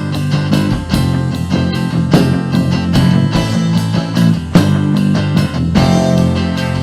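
Rock band playing an instrumental passage between sung lines: electric guitar over bass guitar and drums keeping a steady beat.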